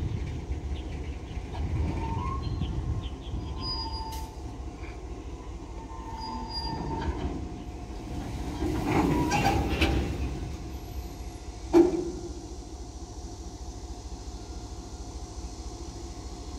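Slow-moving freight train of grain hopper wagons rumbling, with wheels squealing in thin high tones several times early on. It swells louder around the middle, and there is a single sharp bang near the twelve-second mark.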